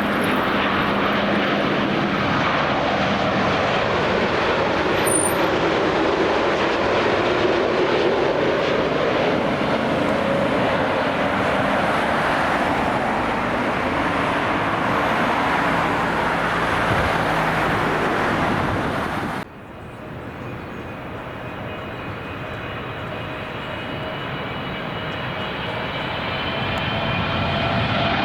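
Jet airliner engines roaring loudly as a plane passes close, the roar sweeping slowly in pitch as it goes by. About 19 seconds in the sound cuts off abruptly to another aircraft's quieter engine whine, which grows louder as it approaches.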